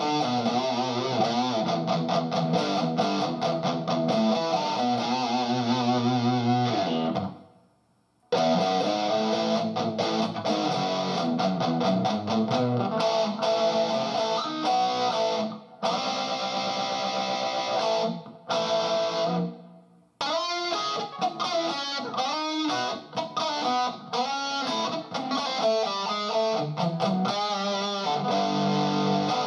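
Electric guitar played through a NUX Mighty Air amp on overdrive with the gain turned up full, sustained chords and riffs. The playing stops for about a second some seven seconds in, then breaks off briefly a few more times.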